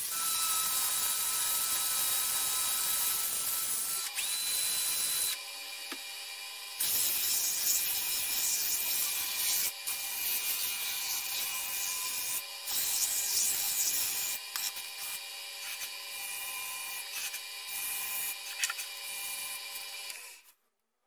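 Wood lathe running with a steady motor whine while something rubs against the spinning chestnut bowl with a loud hiss. The rubbing breaks off briefly a few times, gets choppier in the second half, and everything cuts off suddenly near the end.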